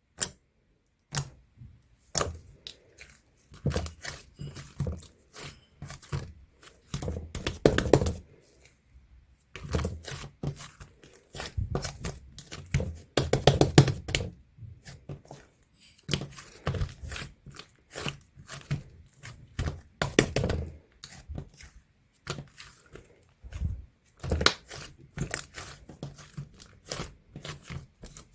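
White slime being squeezed, stretched and pressed by hand, giving irregular sticky clicks, pops and crackles with brief pauses between handfuls.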